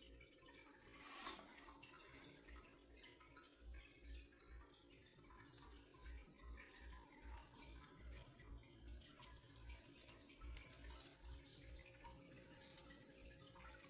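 Near silence with faint dripping and trickling water.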